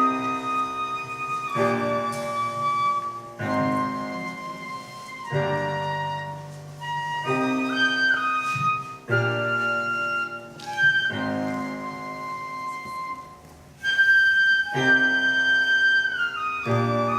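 Korean traditional music ensemble playing, with a flute-like wind melody over held chords that change every second or two; the melody slides in pitch twice.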